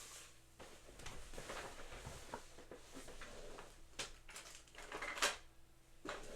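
Parts of boxing equipment being handled and fitted together: light knocks and rustling, with sharper knocks about four seconds in, about five seconds in and near the end.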